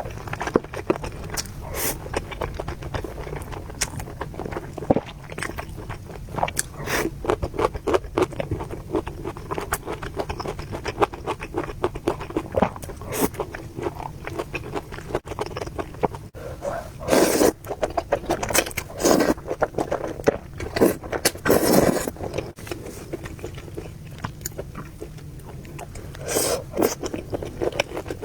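Close-miked eating of spicy noodles: steady chewing with many small wet clicks, and a few louder, longer slurps of noodles.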